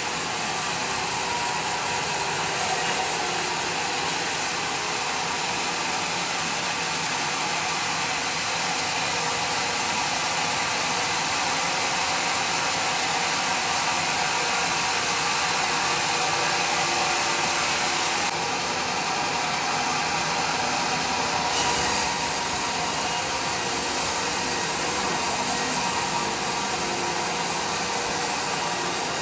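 Homemade sawmill running steadily, its saw cutting through a log.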